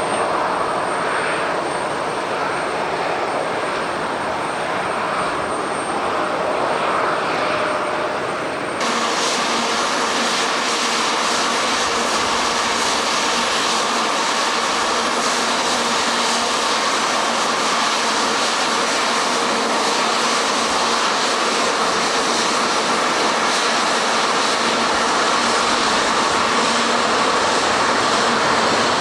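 Jet airliner engines running steadily as landing aircraft arrive: first an Airbus A321neo, then after a sudden cut about nine seconds in, an Airbus A350-900 with its Rolls-Royce Trent XWB turbofans, a fuller and brighter jet noise.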